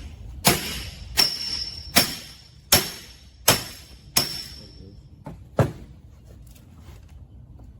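Hammer blows on metal, seven sharp strikes about three-quarters of a second apart, the last after a short pause, with a high metallic ring after several of them: knocking on a part that is stuck.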